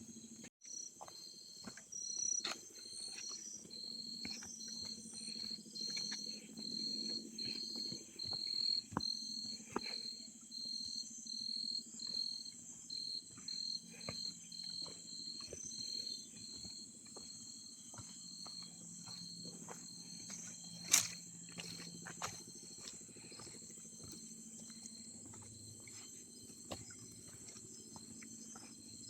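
Rainforest insects calling: a steady high buzz, with a pulsing call repeating about twice a second that fades out partway through. Scattered faint clicks, and one sharp click about two-thirds of the way in.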